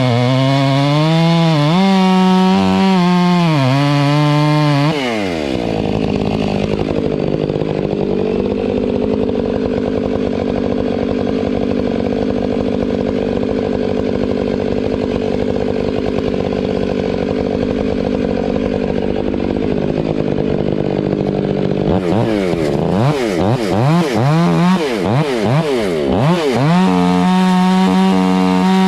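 Two-stroke chainsaw running at high revs with a wavering pitch, dropping to idle about five seconds in. It idles steadily, is revved in quick blips for several seconds near the end, then is held at full throttle.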